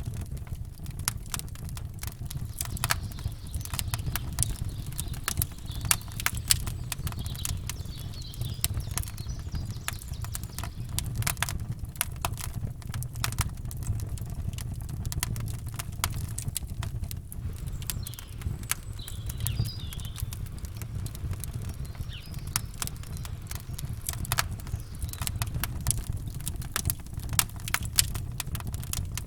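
Campfire crackling, with many irregular sharp pops and snaps over a steady low rumble. Faint bird chirps come through twice, about eight seconds in and again near twenty seconds.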